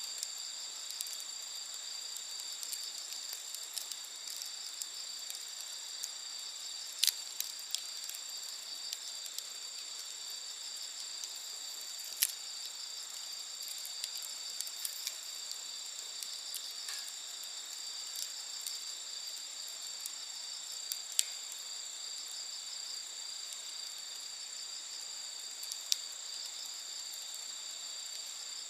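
Steady high chirring of night insects, with a wood campfire crackling in a handful of sharp, scattered pops.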